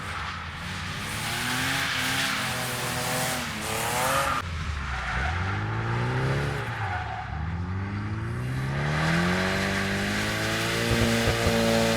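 Drift car's engine revving hard as it slides through a corner, its pitch climbing and dropping several times and then rising steadily for the last few seconds, with tyres squealing and skidding throughout.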